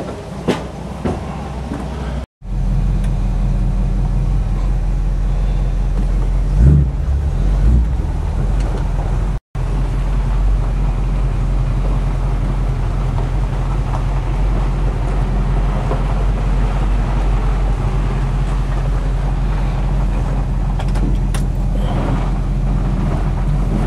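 Old car's engine running steadily as it drives off, heard from inside the cabin as a low hum. It swells briefly about seven seconds in, and the sound cuts out abruptly twice.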